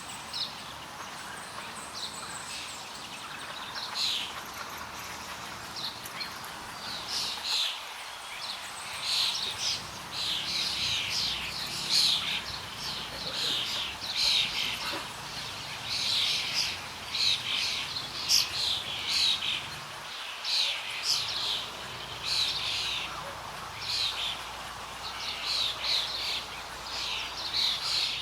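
Songbirds chirping in a rapid, ongoing series of short high notes over a steady outdoor hiss. The chirps are sparse at first and come thick and fast from about four seconds in.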